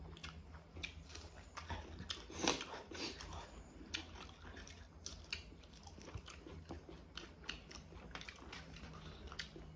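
Close-up eating sounds: wet chewing with irregular crunchy bites, a few a second.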